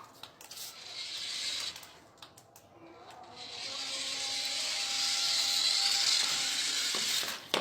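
Remote-control toy car's small electric motor whirring as it drives, in two runs: a short one about half a second in, and a longer one that builds from about three seconds in and stops with a click near the end.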